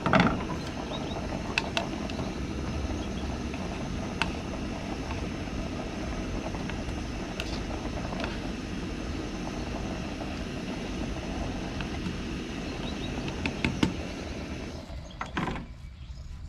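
A stove burner running steadily under a pot of boiling noodle water, with a few light clicks and knocks. The steady noise drops away about fifteen seconds in.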